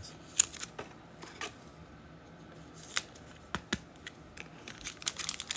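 Trading cards being handled: a handful of light, sharp clicks and snaps, spaced irregularly, as cards are flipped and stacked.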